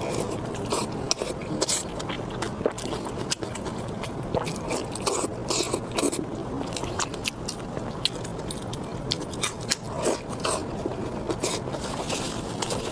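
Close-miked eating: a person biting and chewing food, with many small, irregular, wet clicks and crackles.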